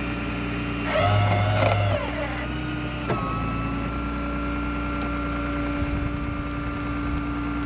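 Vehicle engine running steadily. About a second in, a louder pitched sound lasts roughly a second, and a sharp click comes a second later.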